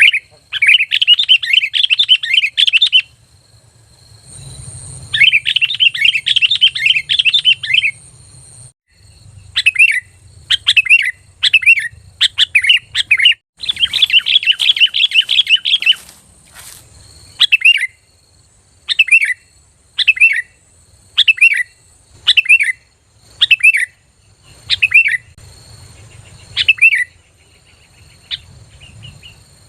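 Sooty-headed bulbul (kutilang) calling loudly and clearly. Long fast chattering runs alternate with short falling whistled notes, which repeat singly about every second and a half in the second half.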